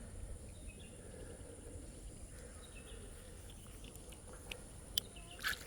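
Faint outdoor field ambience: a steady high-pitched insect drone with a low rumble underneath, and a few sharp clicks about five seconds in.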